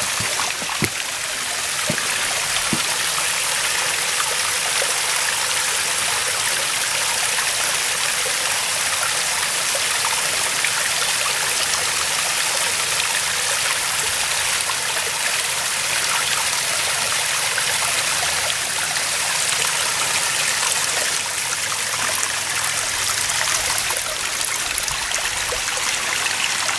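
Small waterfall on a mountain stream, water splashing and rushing in a steady, even wash, with a few faint knocks in the first few seconds.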